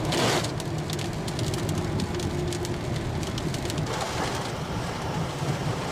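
Heavy rain pattering on a moving Hyundai i20 hatchback, heard from inside the cabin as many small ticks of drops over a steady low road and engine rumble. A brief louder hiss right at the start.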